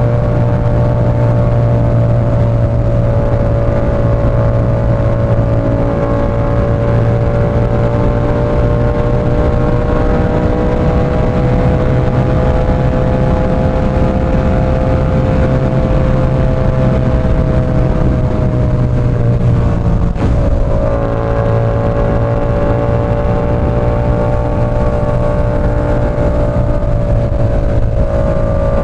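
Yamaha R7's parallel-twin engine running through an SC-Project CR-T exhaust while the bike is ridden at a fairly steady pace. The engine note rises slowly and falls back, dips briefly about two-thirds of the way through, then holds steady again.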